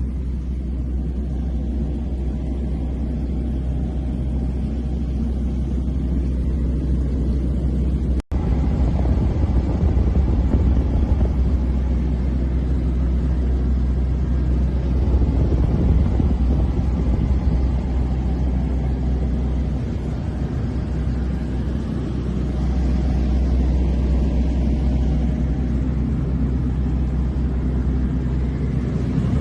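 Small airplane's piston engine and propeller droning steadily inside the cabin. The sound cuts out for an instant about eight seconds in.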